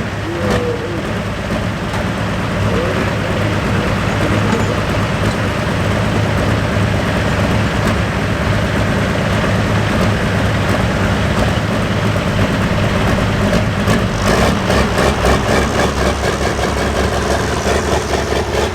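Hot farm pulling tractor's diesel engine running steadily. From about three-quarters of the way through, a regular pulsing beat becomes stronger.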